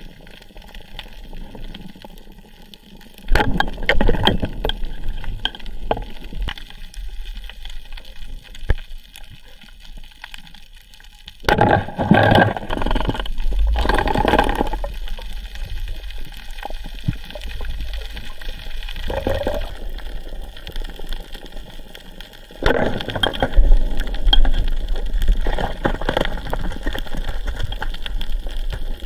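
Water gurgling and sloshing, with louder surges of splashing and bubbling several times.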